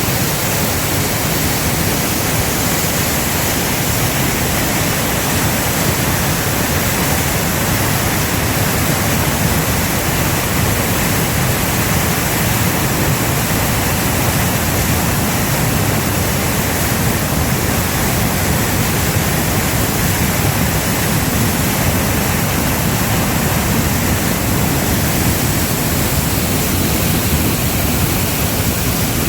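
Waterfall's falling water: a loud, steady rush without change.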